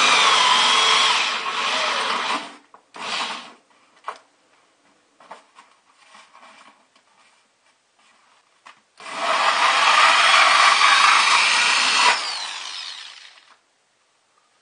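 Power drill with a hole saw cutting a 2 1/8 inch hole through a styrofoam cooler liner, in two long runs with a short burst between them and a few small knocks; the second run fades out near the end.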